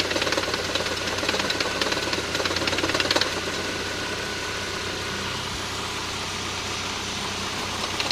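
MG F's Rover K-series engine running with a rapid, regular knocking; the knocks are clearest in the first three seconds or so, then the engine runs more evenly.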